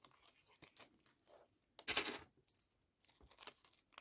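Paper and tape being handled at close range: soft rustles and small taps, with a louder papery rustle about two seconds in.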